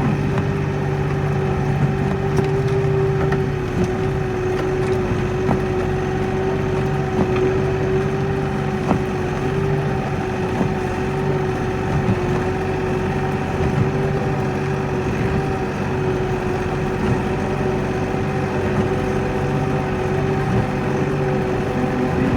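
Kioti NX4510 tractor's diesel engine running at a steady speed with an even hum while plowing snow.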